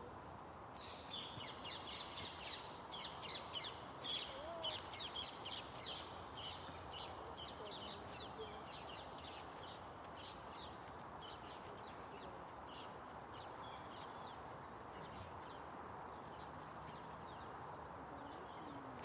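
A bird giving a long series of rapid, harsh, crow-like calls that starts about a second in and fades out after several seconds, over a steady outdoor rushing background.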